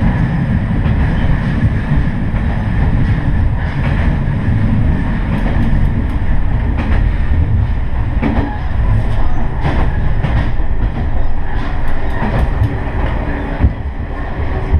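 Diesel railcar running along the line, heard from on board: a steady engine and running rumble, with the wheels clicking over rail joints now and then.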